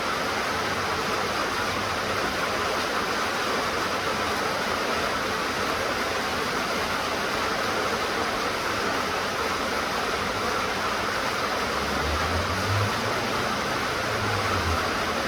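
Steady rain falling, an even hiss with no pauses. About twelve seconds in, a low hum joins underneath.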